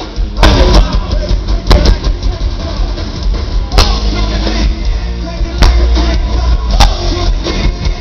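Live rock band playing loudly, a full drum kit driving it with several cymbal crashes, heard through the crowd and reverberation of an arena.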